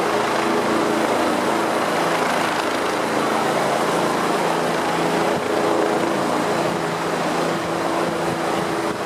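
EMS rescue helicopter running close by: steady, loud rotor and turbine noise with a low hum.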